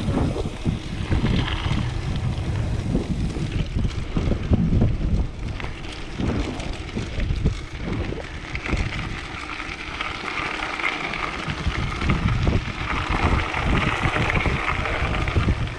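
Wind buffeting the microphone of a camera on a moving mountain bike, an uneven low rumble that rises and falls in gusts. A steadier higher hiss of rushing air joins it about halfway through.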